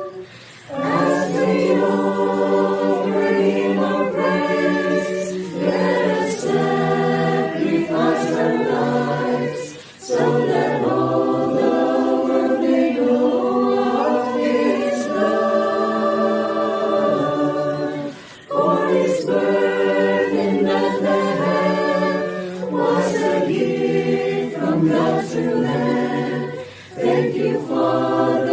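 Choir singing a Christmas carol in long phrases, with brief pauses for breath between them.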